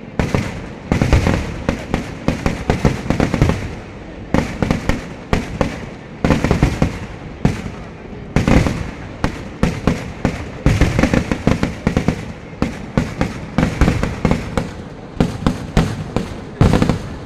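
Fireworks and firecrackers going off in a dense, rapid barrage of bangs, coming in waves with brief lulls between them.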